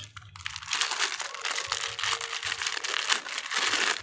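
Plastic packaging crinkling and crackling as a toy is unwrapped, starting about half a second in.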